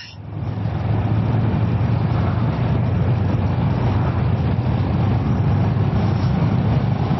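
Kawasaki ER-6f's parallel-twin engine running steadily under way, mixed with wind and road noise; it builds up over the first second and then holds an even level.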